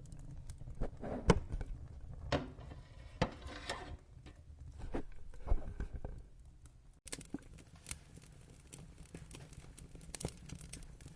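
Wood fire crackling, with irregular sharp pops over a steady low rumble of the flames. The sound drops out for an instant about seven seconds in and comes back as a lighter, more even crackle.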